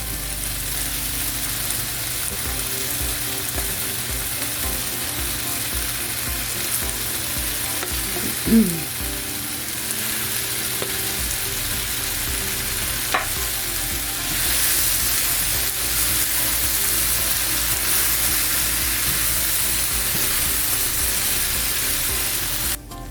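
Chow mein noodles, chicken and vegetables sizzling and frying in a hot pot with a steady hiss, growing louder a little past halfway, with a single sharp knock shortly before that. The sizzle cuts off abruptly just before the end.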